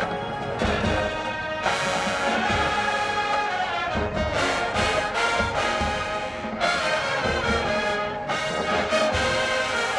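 HBCU marching band playing, full brass section over drums.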